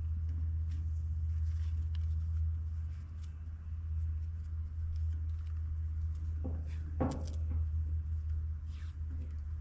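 Low steady rumble of wind buffeting the microphone, with scattered light clicks and a short knock about seven seconds in.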